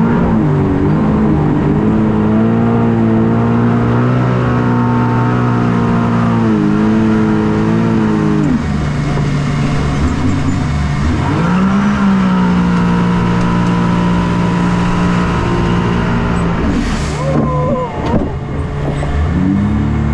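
Shark-shaped watercraft's engine running and revving, its pitch dropping and climbing again several times. A short rush of noise comes near the end.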